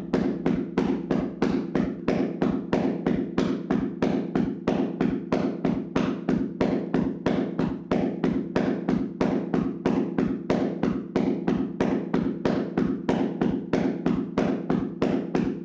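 Hands slapping and tapping on a person's body in a percussive massage: a fast, even rhythm of about four hollow thuds a second.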